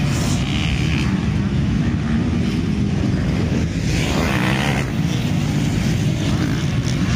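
Motocross bikes racing on the track, their engines running hard in a steady mixed drone, with a harsher, noisier stretch about four seconds in.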